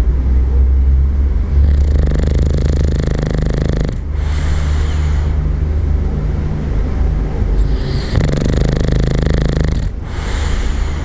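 A bulldog snoring loudly in deep, rumbling breaths, one after another, with a brief break about four seconds in and another near the end.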